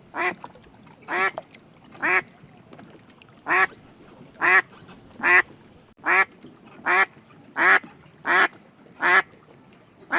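A duck quacking repeatedly: about a dozen short, loud quacks, one every second or less, unevenly spaced.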